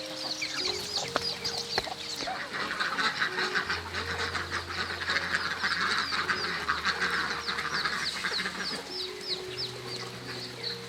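Chickens chirping and clucking, with many quick high chirps falling in pitch, several a second.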